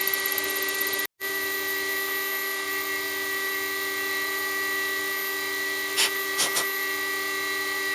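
Milling machine spindle running as an end mill cuts aluminium: a steady whine made of several held tones. The sound cuts out for a moment about a second in, and a few short clicks come near six seconds.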